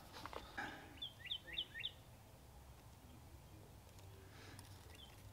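A bird chirping faintly: a quick run of four short, falling notes about a second in, over a low steady background hum, with a few faint clicks near the start.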